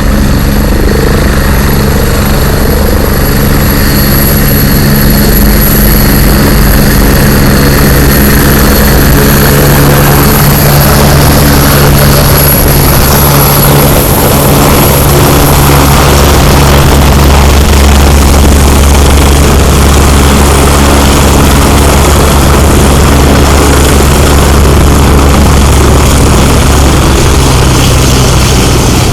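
Medical helicopter running close by, a loud steady drone of rotor and engine with a thin high whine over it that fades out about halfway through.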